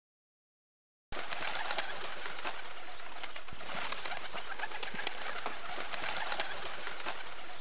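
Flock of feral pigeons: a steady rustling hiss dotted with many small clicks, starting about a second in after a short silence.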